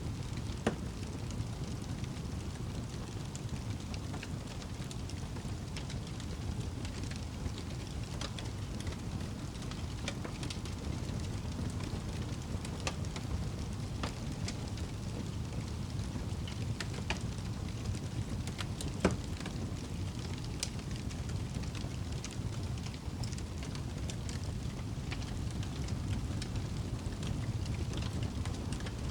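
Campfire burning with scattered crackles and a couple of louder sharp pops, over a steady low rumble.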